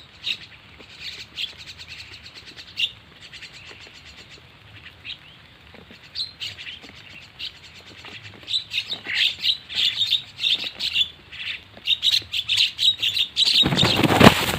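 Jalak (starling) chirps and calls used as a bird lure: short high chirps, scattered at first and coming thick and fast from about halfway on. Near the end a loud rush of noise drowns them for almost a second.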